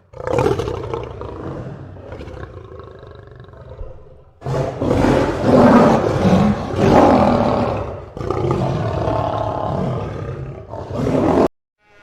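A lion roaring in several bouts, the loudest in the middle, cutting off abruptly near the end.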